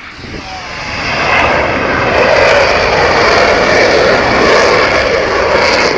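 Jet noise from a McDonnell Douglas F/A-18 Hornet's twin turbofan engines as the fighter makes a very low pass. It builds over the first couple of seconds, then holds loud and steady.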